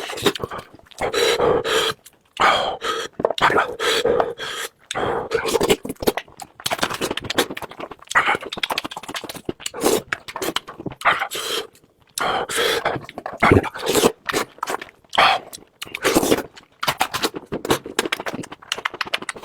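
A person eating close to the microphone: loud, wet chewing and lip-smacking with crunchy clicks, in uneven bursts broken by brief pauses.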